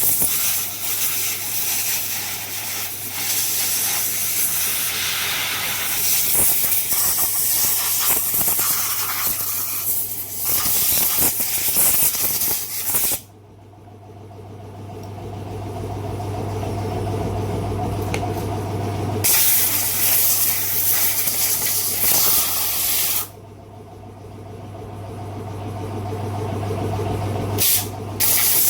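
Loud, steady hissing rush, like a jet of air or spray, that cuts off abruptly twice and starts again each time, over a steady low hum.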